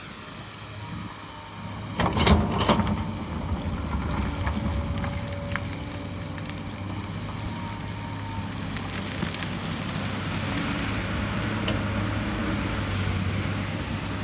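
Hyundai excavator's diesel engine running steadily, with a burst of loud knocks about two seconds in.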